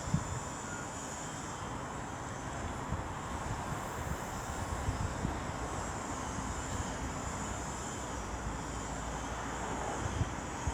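Steady, fairly faint rumble of an approaching Class 350 electric multiple unit train, swelling slightly midway.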